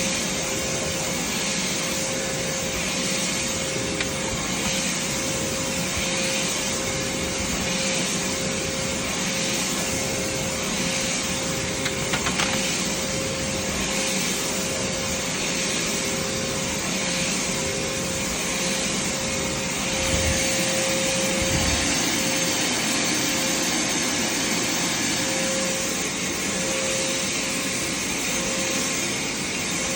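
Vacuum cleaner running without a break: a steady motor hum under a continuous rush of air, swelling and easing about once a second, with a few light knocks midway.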